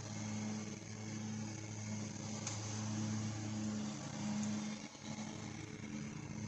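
Steady low machine hum, like a motor or fan running, with a slightly higher hum that swells and fades over and over.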